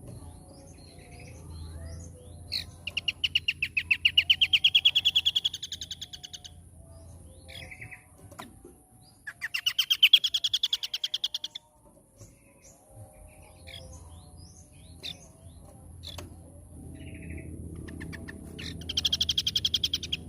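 Scaly-crowned babbler singing its rapid trill three times: each a fast run of evenly spaced notes rising in pitch over two to four seconds, with short chirps in between.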